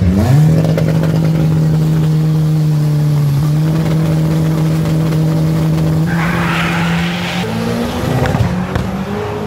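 Drag-racing VW Gol's engine run up quickly and held at steady high revs with its tyres spinning and squealing, a burnout at the start line. Near the end the engine note shifts.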